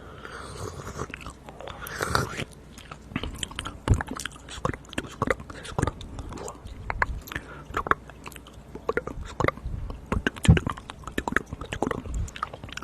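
Close-miked ASMR mouth sounds: an irregular, dense run of wet clicks and smacks, like biting and chewing at the microphone.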